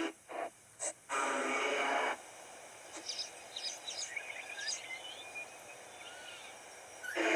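Blocks of hissing radio-style static from a ghost-box app, one short burst, a blip, then a longer burst about a second long, followed by faint high bird chirps and whistles from a pet bird.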